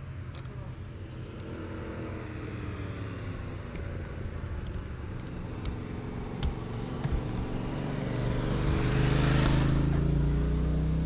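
Vehicle engine running at low road speed, its low tone shifting in pitch, swelling to its loudest about nine seconds in as traffic passes close by.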